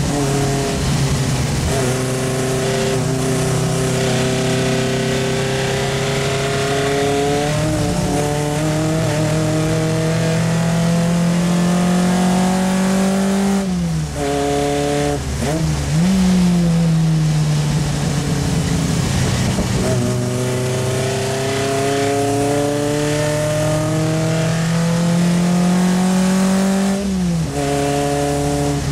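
Triumph Spitfire Mk3's four-cylinder racing engine heard from inside the car, its revs climbing slowly for over ten seconds, then falling sharply, with a quick brief rise and a fall. Near the end the revs climb steadily again and drop once more.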